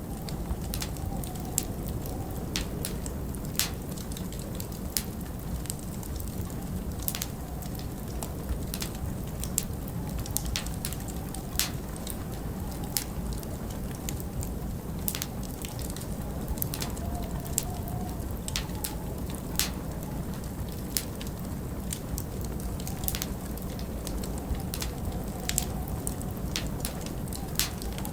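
Wood fire in a large stone fireplace crackling, with irregular sharp pops every second or so over a steady low rumble of winter wind.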